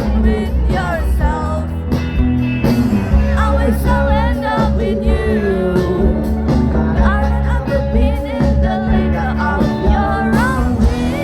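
A band playing a rock song with a singer, over a strong, steady bass.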